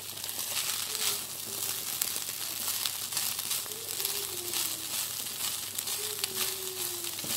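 Fried rice sizzling in a hot pan while a spatula is pushed and turned through it, with the rustle of rice grains and light scrapes of the spatula on the pan.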